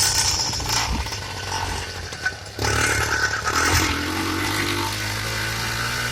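GT80 two-stroke motorized-bicycle kit engine running under way on a ride; its sound drops off about two seconds in and picks back up sharply a moment later, with a brief change in pitch soon after.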